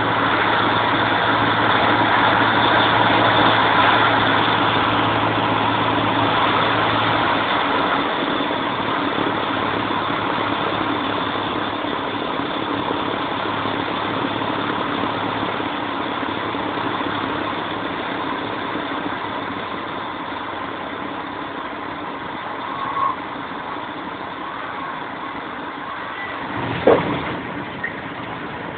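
Cessna 150's four-cylinder Continental O-200 piston engine and propeller running steadily, gradually getting quieter through the landing. A brief sharp sound comes near the end.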